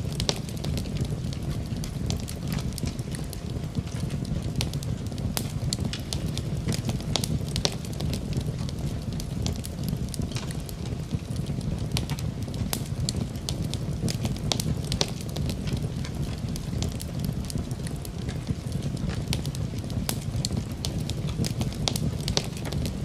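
Wood fire burning in a fireplace: frequent, irregular sharp crackles and pops over a steady low rush of the flames.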